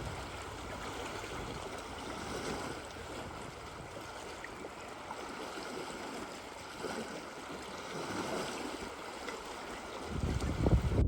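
Steady wash of moving water. About ten seconds in, a louder low rumble starts.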